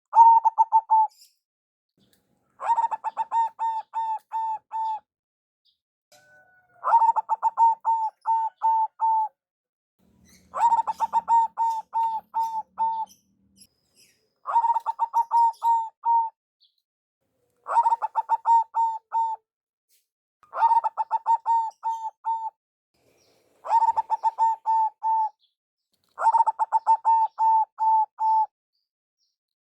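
Zebra dove (perkutut) cooing its song over and over: nine phrases of quick staccato notes, each lasting one to two seconds, with short gaps between them.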